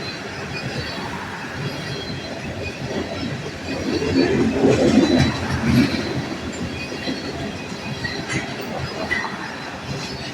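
Freight train of tank cars rolling past, a steady rumble with wheels clicking over rail joints and faint thin wheel squeal; it swells loudest about halfway through.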